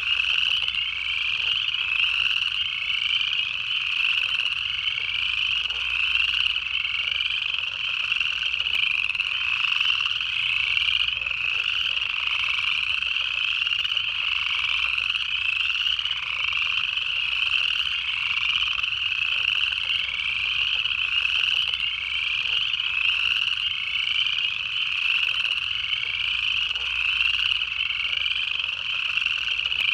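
A dense chorus of upland chorus frogs: many overlapping short, rising trills, one about every second, without a break.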